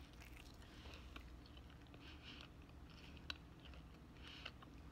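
Faint, close-up chewing of a bite of bacon pizza: soft mouth sounds repeating every second or so, with one sharper click about three seconds in.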